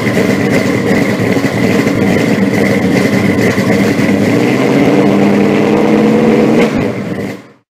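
Car engine running loudly after starting, with a steady high whine over it, picking up slightly about five seconds in before fading out near the end.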